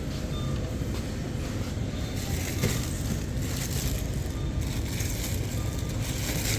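Shopping cart rolling over a store floor, a steady low rumble with light rattling.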